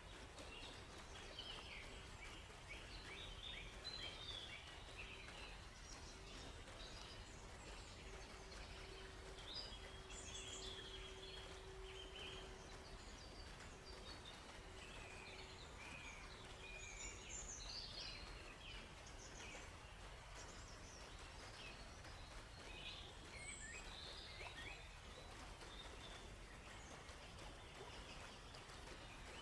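Faint forest ambience: many small songbirds chirping, short high calls scattered throughout over a soft steady background hiss. A faint low steady hum comes and goes through the first half.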